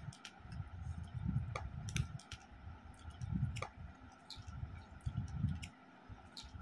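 A person chewing a mouthful of rice and curry eaten by hand, with repeated soft low chewing thuds and scattered sharp wet mouth clicks.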